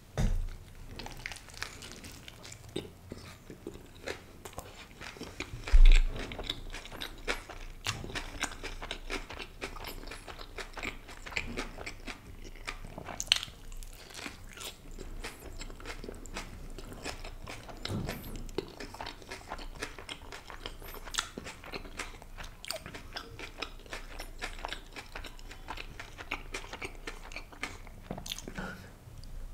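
Close-miked eating: biting into and chewing a paneer tikka wrap, with crunching of its raw vegetable filling and many small mouth clicks. A dull low thump comes about six seconds in.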